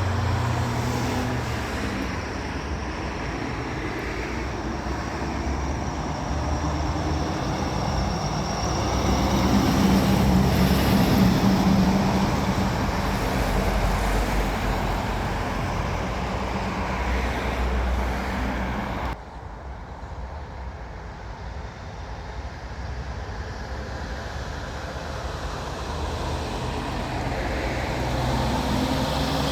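Heavy trucks driving past on a road: engine drone over steady traffic and tyre noise. The level drops suddenly about two-thirds of the way through.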